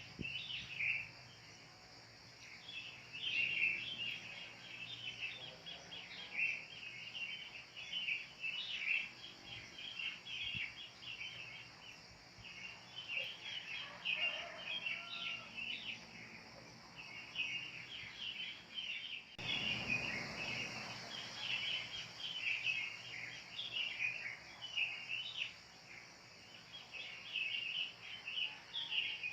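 A chorus of wild birds chirping and calling continuously in quick overlapping notes, over a steady high insect hiss.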